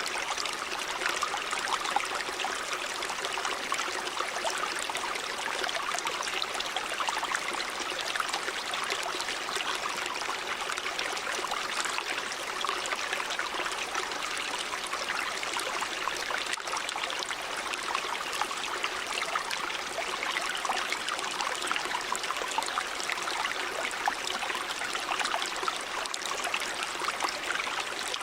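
River water running, a steady, even rush with no pauses or changes.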